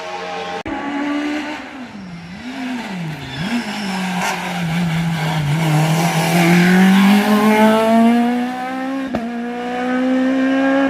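Competition car's engine at a slalom, its revs dipping and rising quickly a few times and then climbing steadily in one long rising pull as the car accelerates.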